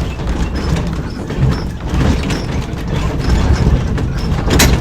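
Streetcar running on its track: a steady low rumble with scattered clicks, and one sharp knock near the end.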